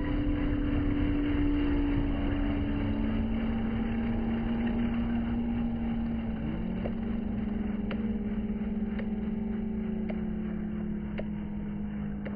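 Helicopter flying overhead, a steady engine and rotor drone whose pitch drops slightly about two seconds in and shifts again past the middle as the helicopter moves. A few faint sharp ticks come near the end.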